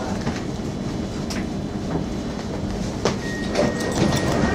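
Suburban electric train running past the platform: a steady low rumble with the wheels clicking over rail joints. A thin high whine comes in about three seconds in.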